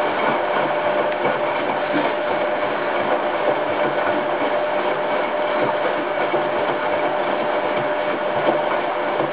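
Hoover Time Manager H130E washing machine running its first rinse: a steady, even noise with a thin steady tone running through it.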